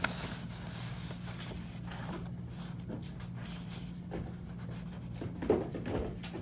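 Faint rustling and light clicks of handling over a steady low electrical hum, with one slightly louder scrape or knock about five and a half seconds in.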